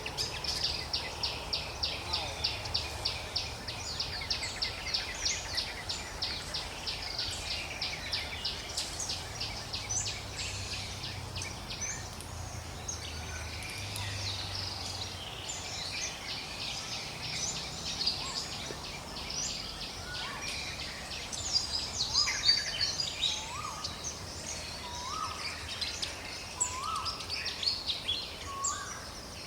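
Forest ambience of birds calling. A fast, even pulsing call runs through the first twelve seconds or so, then gives way to scattered chirps and a short rising whistle repeated every couple of seconds.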